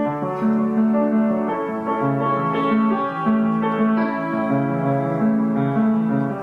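Background piano music: a melody of held notes over a moving bass line.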